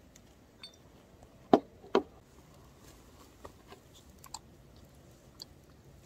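Someone eating roast lamb: chewing and biting, with two sharp crunchy clicks about a second and a half and two seconds in, then a few faint ticks.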